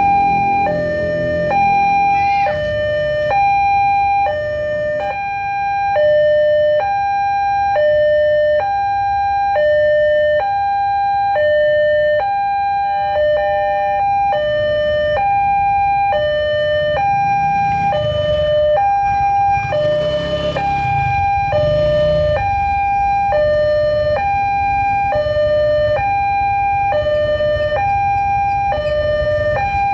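Electronic warning alarm of a Siemens railway level crossing sounding a two-tone hi-lo signal, a higher and a lower tone alternating, each held about half a second, signalling that a train is approaching. It is the replacement alarm fitted in place of the original American-style Siemens sounder. Road traffic rumbles underneath, swelling about two-thirds of the way through.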